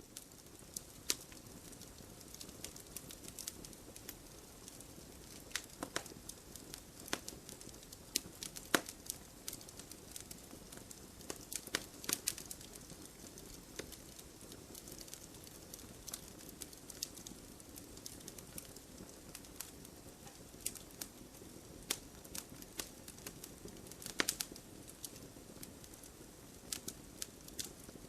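Firewood burning: irregular sharp crackles and pops over a steady low hiss, with a few louder pops around 9, 12 and 24 seconds in.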